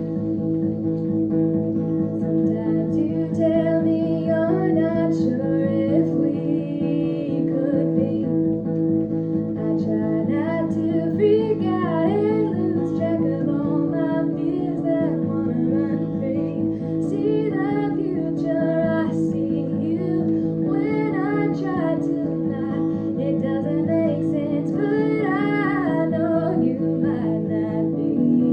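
Live acoustic guitar strumming chords, with a singer's voice coming in about three seconds in and carrying a wavering melody over it.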